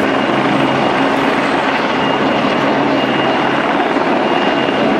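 Helicopter running close by: a loud, steady rotor and engine noise with a thin high whine.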